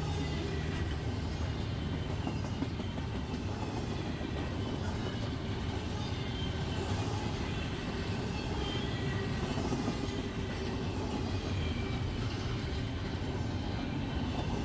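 Freight train rolling past steadily, a continuous rumble of its cars on the rails.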